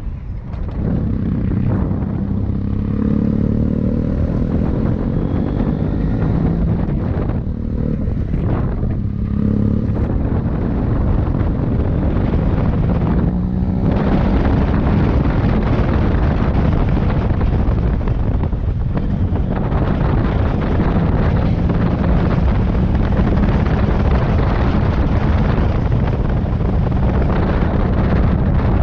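Motorcycle engine running under way, its pitch rising several times as it accelerates, with wind noise on the microphone that becomes heavier from about halfway through.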